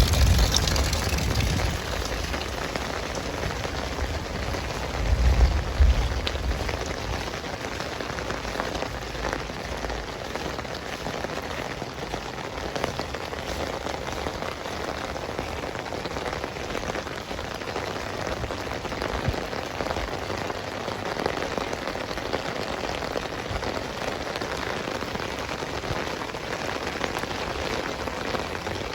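Heavy rain falling steadily, a dense hiss of drops on surfaces, with a brief low rumble about five seconds in.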